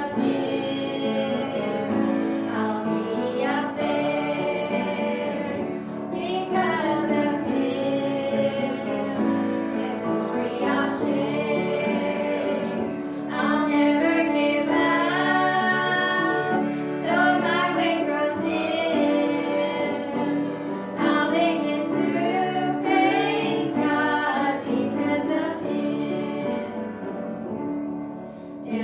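Gospel song sung by a small family group, several voices singing together over musical accompaniment.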